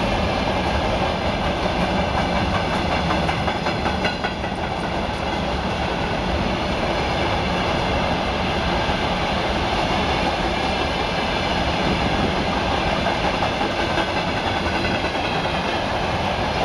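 Wagons of a long freight train rolling past, a steady rumble of wheels on rail with repeated clatter of wheels over the rail joints.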